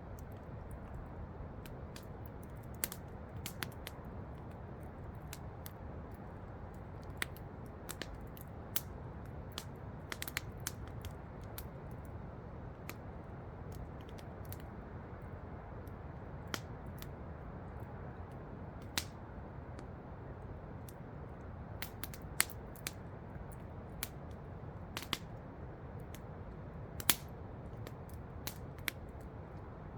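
Campfire crackling, wood popping in irregular sharp snaps, a couple of them louder, over the steady low rush of a waterfall.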